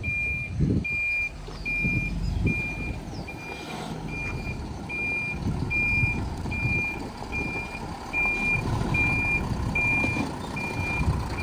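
Tipper lorry's reversing alarm beeping steadily at one high pitch, about two beeps a second, over the low running of the truck's engine: the lorry is in reverse.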